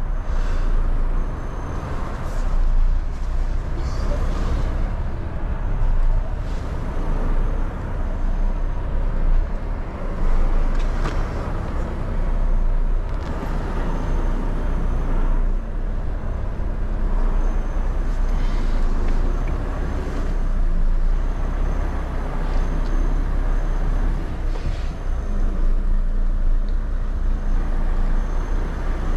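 Heavy goods vehicle's diesel engine running at low speed, heard from inside the cab while the lorry is slowly reversed, with a steady low drone. A faint high-pitched beep comes and goes, and there are a few short hissing sounds.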